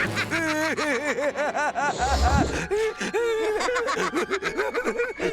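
A cartoon character laughing in a long, rapid, high-pitched string of "ha-ha" notes, with a low thud about two seconds in.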